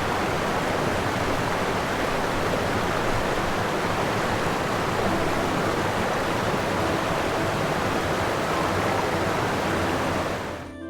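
Steady, even rushing of falling water, fading out near the end.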